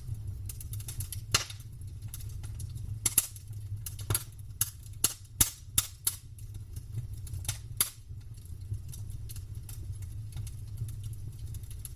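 Campfire crackling: burning wood snapping and popping in sharp cracks, with a dense run of loud pops from about three to eight seconds in, over a steady low rumble.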